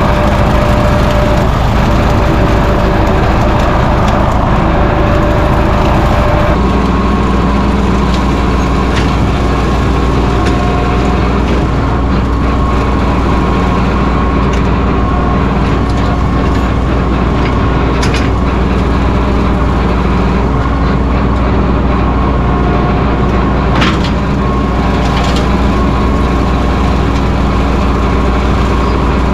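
Mahindra 1626 sub-compact tractor's diesel engine running steadily, its note changing about six seconds in, with a couple of light clanks later on.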